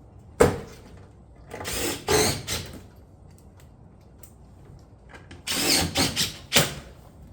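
Fasteners being driven into metal roofing panels with a power driver: a sharp knock, then two runs of the driver of about a second each.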